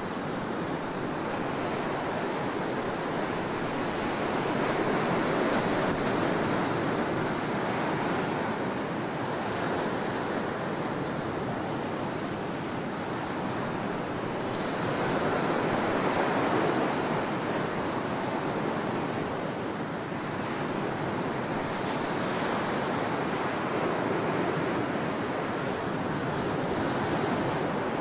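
Ocean surf breaking on a sandy beach: a steady wash of waves that swells and ebbs in slow surges every several seconds.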